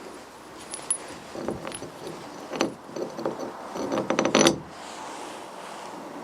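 Metal hardware clinking and rattling as steel bolts and parts are handled, a string of light knocks that ends in a quick flurry of clinks at about four and a half seconds.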